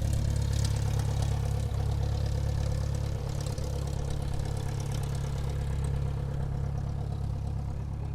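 Airplane engines running at low power as the aircraft taxis, a steady low hum that slowly fades over the last few seconds.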